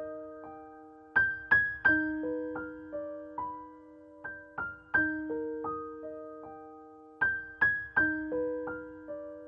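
Background piano music: a slow, gentle melody of single struck notes that ring and fade, repeating the same short phrase.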